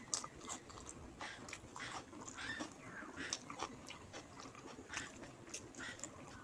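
A person chewing and smacking their lips while eating rice with fish curry: irregular short mouth clicks and smacks, a few each second.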